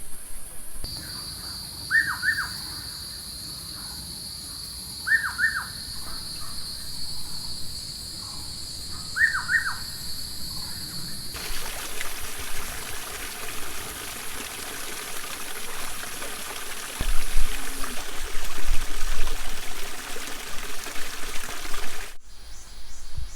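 Forest ambience: a steady high-pitched insect drone with a bird calling three times, short falling double notes a few seconds apart. About halfway in the sound cuts to a steady rush of running water.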